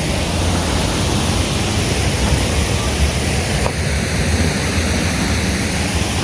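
Rushing water of a mountain river and waterfall: a loud, steady roar with no letup.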